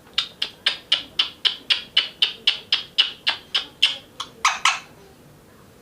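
Rose-ringed (ringneck) parakeet giving a rapid run of short, sharp calls, about four or five a second, ending in two longer calls.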